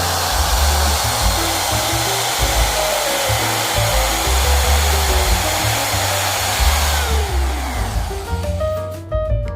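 A high-speed electric power tool runs steadily with a loud whir, then is switched off about seven seconds in and spins down with a falling whine. Background music with bass notes plays underneath and is left on its own near the end.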